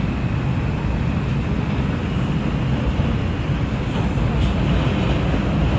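NYC Subway R142 car running between stations, heard from inside the car: a steady rumble of wheels on the rails.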